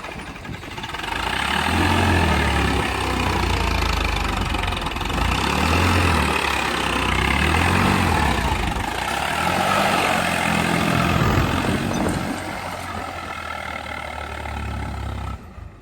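Tractor engine running, its revs rising and falling several times. The sound cuts off suddenly near the end.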